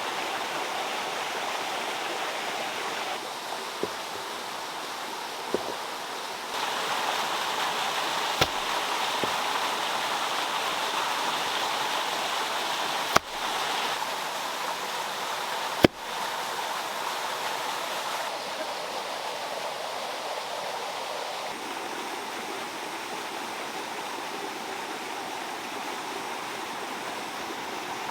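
Steady rush of water running and splashing, as from a small handmade stone waterfall, its level shifting up and down a few times. A few sharp clicks or knocks cut through it, the loudest two about halfway through, a couple of seconds apart.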